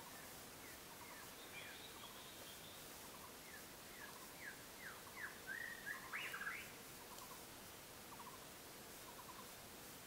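Birds chirping faintly: scattered short chirps, with a quick run of sweeping chirps that is loudest about five to six and a half seconds in.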